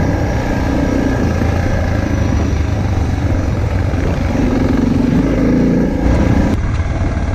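Motorcycle engine running while riding a dirt trail, the revs rising and easing with the throttle; the sound changes abruptly about six and a half seconds in.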